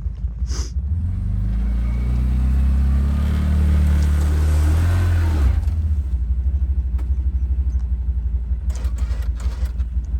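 Side-by-side ATV engine running and revving up, its pitch climbing for a few seconds, then dropping back suddenly about five seconds in to a steady throb.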